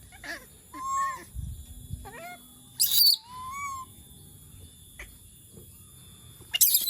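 Pet monkey calling: a string of short, arched, whimpering coo calls, broken by a loud harsh shriek about three seconds in and another near the end.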